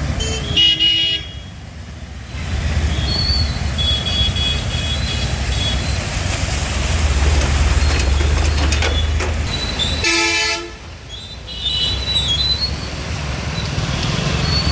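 Road traffic running steadily, with vehicle horns sounding briefly twice: about half a second in and again about ten seconds in.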